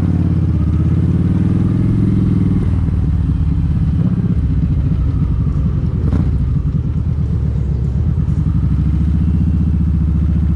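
Kawasaki Vulcan 1700 Vaquero's V-twin engine running under way, its note climbing over the first couple of seconds, breaking about two and a half seconds in, then running steadily.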